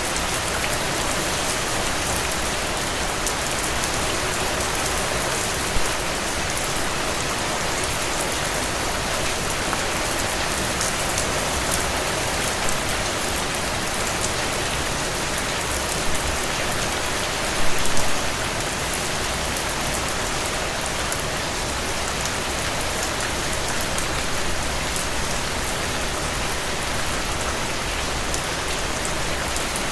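Steady rain falling, with fine pattering of drops on a surface and a few louder drop hits along the way.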